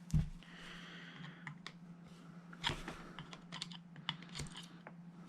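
Small metal clicks and scrapes of a flathead screwdriver working at an airsoft rifle's stock hinge and its E-clip. A sharp knock comes at the start, then a short scraping stretch, then a run of light, irregular clicks.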